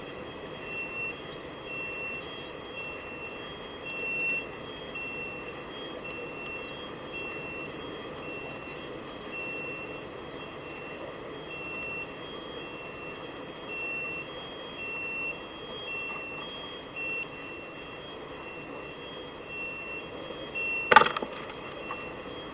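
Steady background rumble with a high beep-like tone repeating at even spacing throughout, and one sharp knock near the end.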